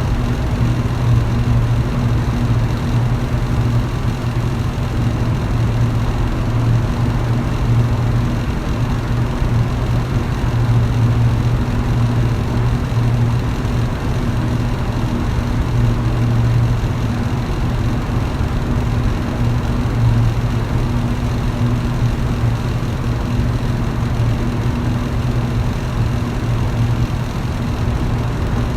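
Electric fan running steadily: a low motor hum under an even rush of moving air.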